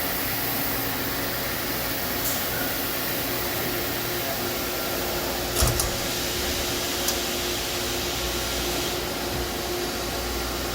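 Star ECAS-20T CNC Swiss-type lathe and its ancillary pumps and fans running at idle, a steady whirring hum with a faint low tone. A few short clicks come a little past the middle.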